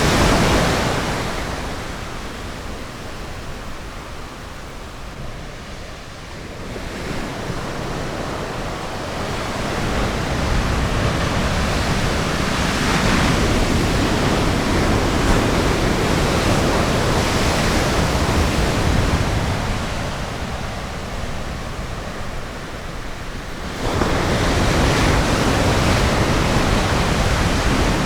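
Ocean surf washing onto a beach, a steady rush of water that swells and eases in slow surges, with a sudden step up in loudness near the end.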